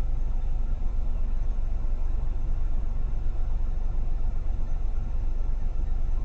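Steady low rumble of a car driving in traffic: engine and tyre noise with no sudden sounds.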